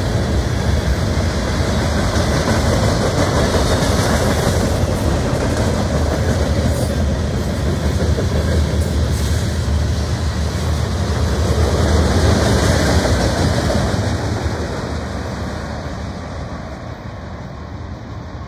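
Freight train cars rolling past on the rails, a steady rumble of steel wheels. It is loudest as the last tank cars go by, then fades steadily as the train pulls away.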